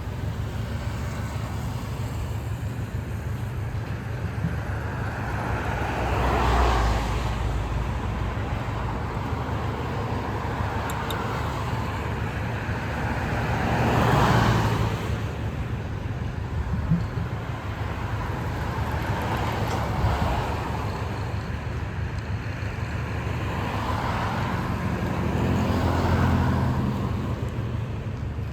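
Road traffic: a steady low engine rumble, with four vehicles passing by, each swelling and fading over a couple of seconds.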